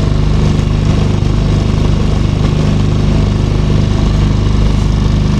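Small motorboat engine running steadily at constant speed, a low even hum with no change in pitch.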